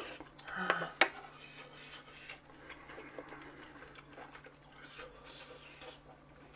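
Eating utensils clinking and scraping against dishes: two sharp clicks about a second in, then faint small clicks and scraping.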